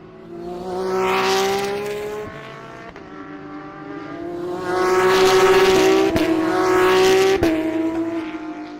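GT3 race cars accelerating past at full throttle, engine pitch climbing as each goes by: one pass about a second in, then a louder one with two sharp gear shifts that drop the pitch each time.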